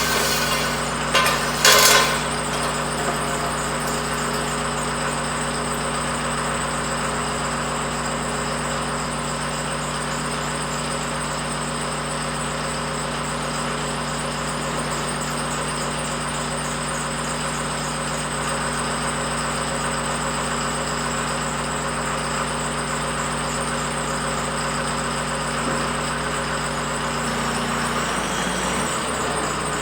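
An engine running steadily at idle, with a few sharp knocks in the first two seconds.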